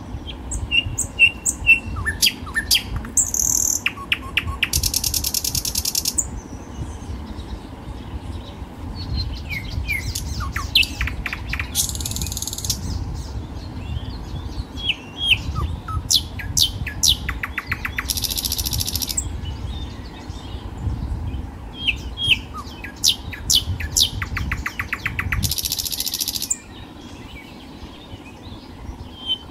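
Small birds chirping, with a high buzzy trill repeated about every six or seven seconds, over a steady low background rumble.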